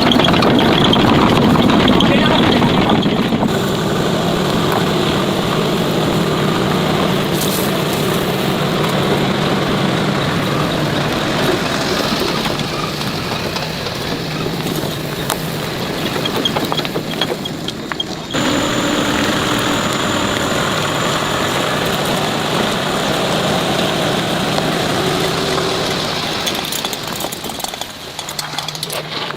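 Motor vehicle engine running under way, in several spliced stretches.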